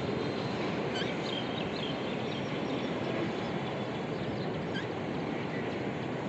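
A few short, faint budgie chirps about a second in and again near five seconds, over a steady, louder rushing noise.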